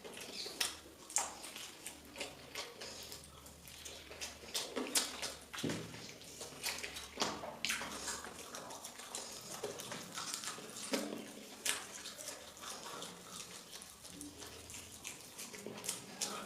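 Wet chewing and smacking of someone eating, coming as irregular short clicks and smacks.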